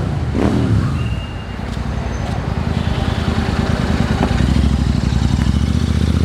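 Royal Enfield Interceptor 650's parallel-twin engine running: a rev falls back soon after the start, then it idles steadily.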